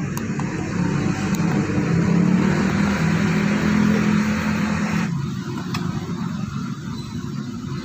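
Mazda 3 car engine running, its noise building over the first few seconds and then dropping back abruptly about five seconds in, as when the throttle is released.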